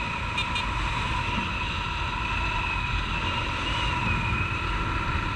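Honda CG 150 Titan's single-cylinder four-stroke engine running steadily under way, with a steady whine and wind rumble on the helmet-mounted microphone.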